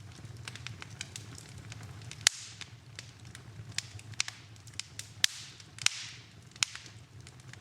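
Wood fire burning in a fireplace, crackling with irregular sharp pops, the loudest a little over two seconds in, over a steady low rumble.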